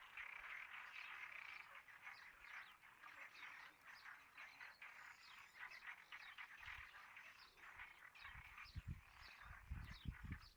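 Faint chorus of frogs calling, many short overlapping calls blending into a continuous trill. Some low thuds come in near the end.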